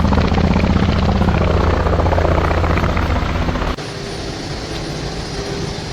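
Helicopter running nearby, its rotor beating at a rapid, even pulse. About three and a half seconds in, the sound cuts abruptly to a quieter steady hum.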